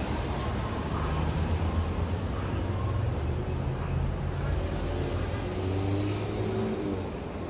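A motor vehicle engine running with traffic noise. About five and a half seconds in, an ice cream truck's chiming jingle begins to come in faintly.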